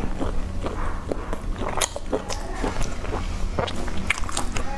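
A person chewing food close to the microphone: irregular mouth clicks at uneven intervals over a steady low hum.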